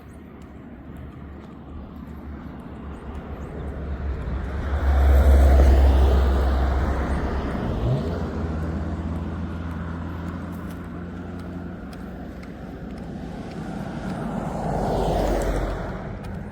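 Two motor vehicles passing by, one after the other: the first grows loud about five seconds in and fades, a second passes near the end, with a short rise in engine pitch in between.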